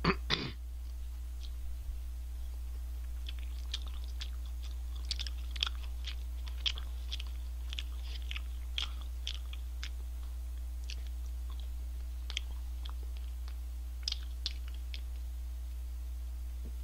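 A person chewing crunchy fast food close to the microphone: irregular crisp crunches, many in the middle stretch, fewer toward the end.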